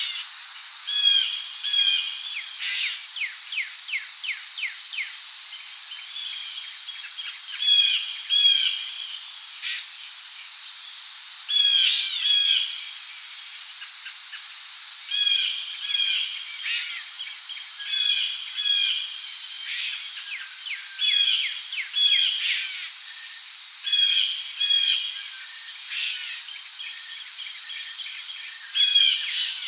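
Rainforest ambience: crickets keep up a steady high drone while birds repeat short paired calls every second or two, with a quick rattling series of notes a few seconds in.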